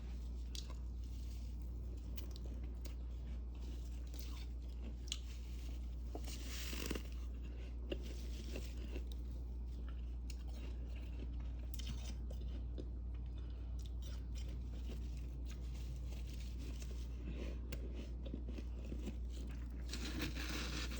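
Crisp crunching and crackling of built-up freezer frost, humidifier-grown, being scraped and broken off the freezer's walls and edges in short irregular strokes, with a louder crunch about a third of the way in and again near the end. A steady low hum runs underneath.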